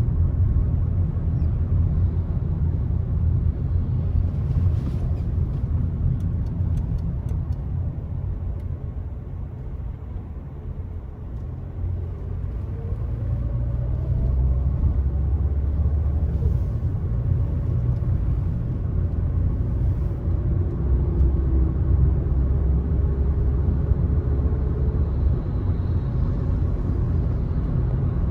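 Car driving along a road, a steady low rumble of tyres and engine. It eases off about ten seconds in, then builds again with a faint rising engine note.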